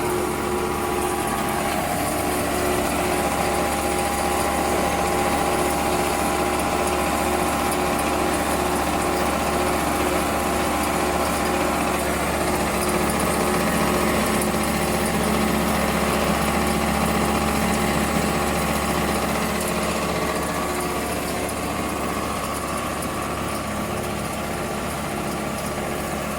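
GMMA-100K automatic plate-edge bevelling machine running steadily, a motor hum with a few held whining tones, slightly louder in the middle.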